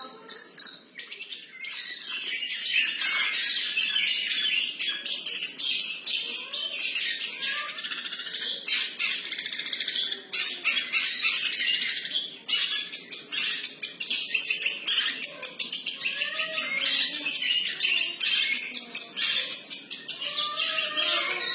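Long-tailed shrike (cendet) singing a free-form song: a continuous, rapid run of high chattering notes with a few lower sliding calls mixed in.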